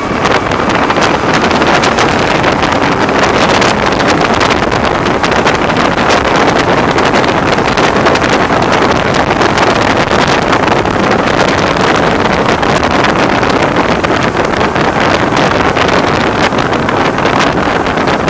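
Heavy wind noise buffeting the microphone of a BMW R1100R motorcycle riding at road speed, a steady loud rush that all but covers the engine. The rider puts the wind noise down to the bike's windscreen.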